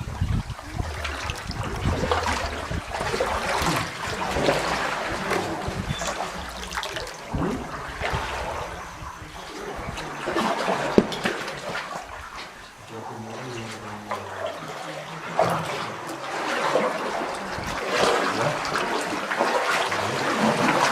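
Water splashing and sloshing in uneven surges around a sea canoe as paddles dip and pull through the water.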